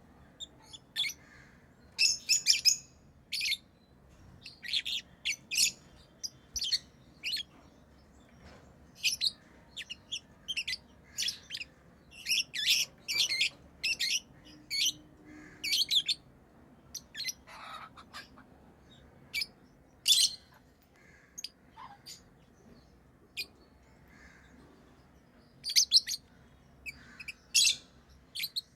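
Pet lovebirds chirping: short, high chirps coming in quick clusters with brief pauses between.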